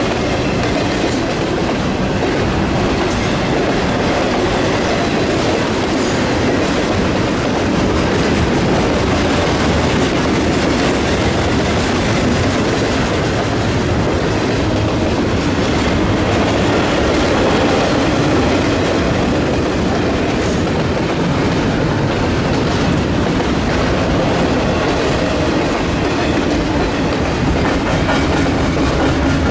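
Double-stack intermodal container train rolling past, the steady loud noise of its wheels on the rails and its cars running by without a break.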